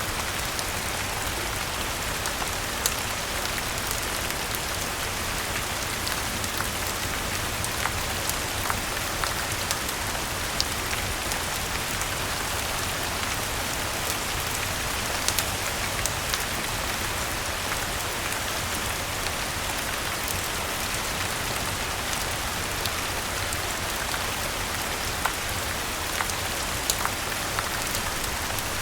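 Steady rain falling on a garden, with scattered sharp pops and crackles from a wood fire burning in a fireplace.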